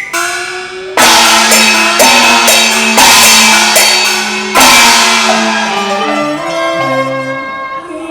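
Cantonese opera accompaniment band playing an instrumental passage: four loud percussion crashes, about a second apart, over sustained melodic instruments, ending with a short falling run of notes.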